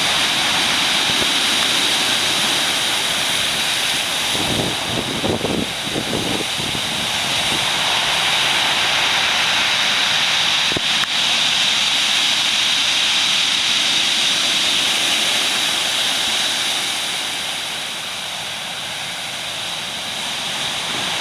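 Steady roar of heavy surf from typhoon-driven high waves, with a stretch of low rumbling about five seconds in, easing a little near the end.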